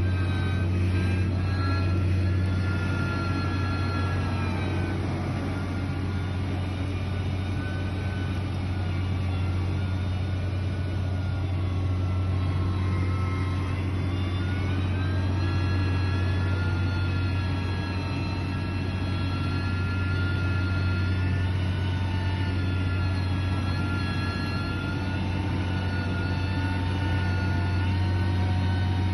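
Heavy diesel machinery engine running steadily, a deep drone with a high whine over it that dips in pitch about halfway through and then rises again.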